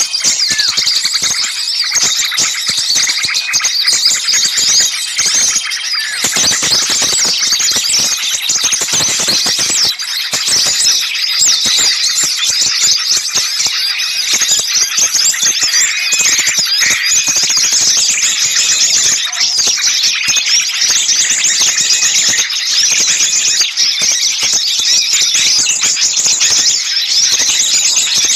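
Dense chorus of many small birds chattering and alarm-calling at once: a loud, unbroken mix of rapid high chirps and trills. It is a bird-lure recording of small birds making a commotion, used to draw other small birds in.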